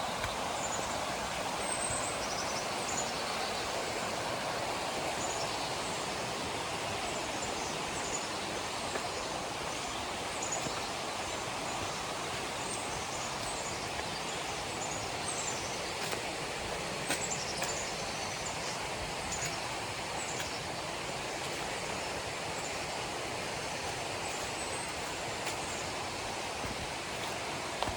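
Steady rushing of a river's running water, with faint high chirps scattered throughout.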